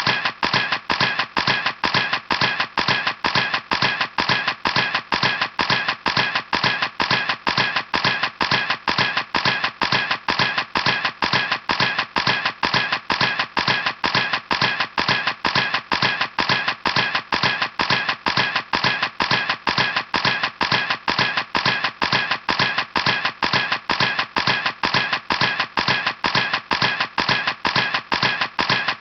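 Camera shutter clicking over and over at a steady, machine-like rate of about three or four clicks a second.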